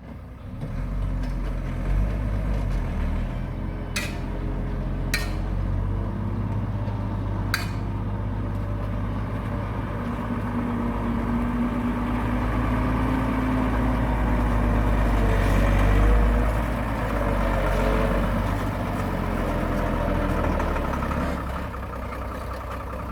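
Heavy diesel earthmoving machinery running under load, the engine note working up and down, with three sharp metallic clanks in the first half and the engine swelling louder later on.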